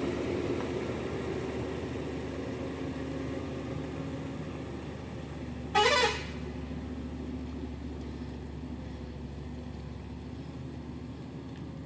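A vehicle engine running steadily and slowly fading, with one short horn toot about halfway through.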